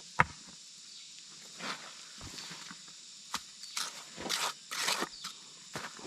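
Scattered rustling and scuffing, like footsteps and handling on dry ground, with two sharp clicks, one just after the start and one about three seconds in, over a steady high hiss.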